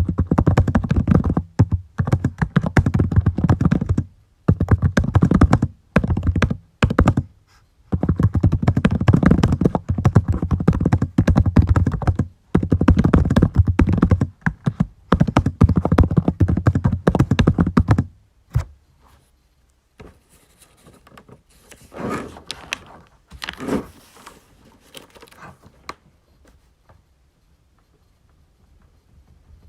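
Fast typing on a computer keyboard, in quick runs of keystrokes broken by short pauses, stopping about two-thirds of the way through. After that come only a few faint knocks and shuffles.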